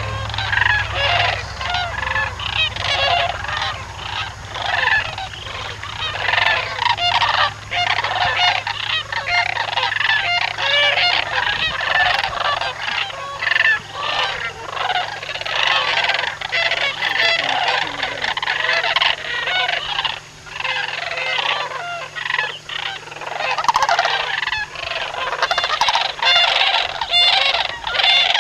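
Dense, continuous chorus of a huge flock of large birds, many calls overlapping at once. A steady low hum runs underneath and fades out near the end.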